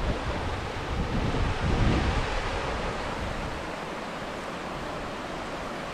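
Steady rush of falling water from a waterfall, with wind buffeting the microphone in a low rumble during the first two seconds.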